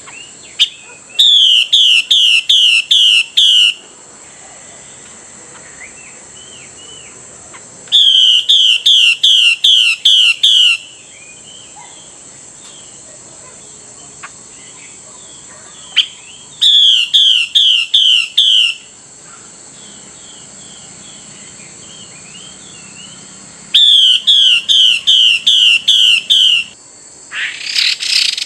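Female Chinese hwamei giving its 'xùy' call to the male: four loud bouts of about six quick, repeated, sliding notes, roughly seven seconds apart. Faint chirps of other birds and a steady high hiss fill the gaps, and a short noisy rush comes near the end.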